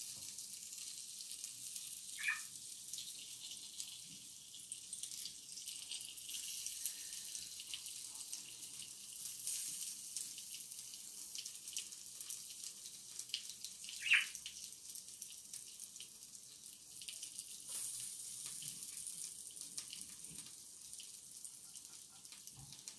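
Thin raw potato slices frying in oil on the hot plate of an electric tabletop grill: a steady high sizzle with fine crackles as more slices are laid on. Two brief squeaks stand out, about 2 and 14 seconds in, the second one the loudest.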